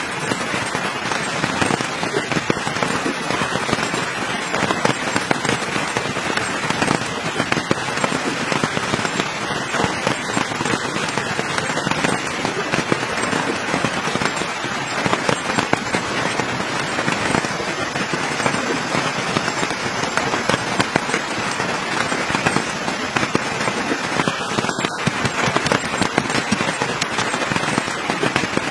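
Campfire crackling and popping steadily, a dense run of small snaps.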